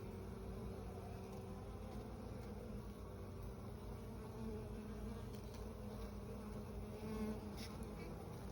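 Honeybees buzzing, a steady wavering hum of many bees together.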